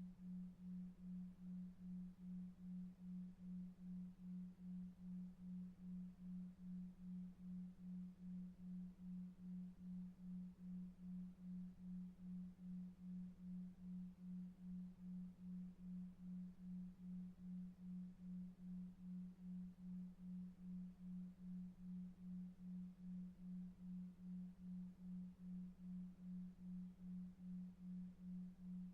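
A faint, low, pure electronic tone pulsing evenly about two and a half times a second: a 2.5 Hz delta-wave pulsed tone for sleep. A faint low brown noise lies beneath it.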